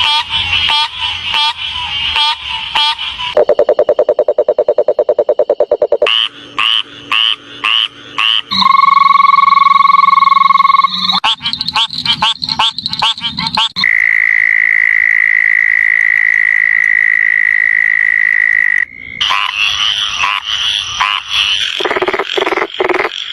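Frogs calling in a run of different call types that switch abruptly every few seconds: rapid repeated croaks, a fast low buzzing trill, and long steady high-pitched trills.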